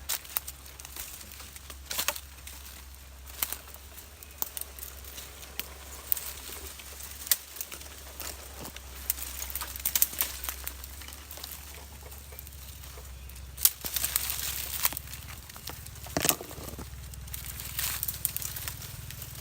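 Scattered rustling and crackling clicks, denser in the second half, over a low steady hum.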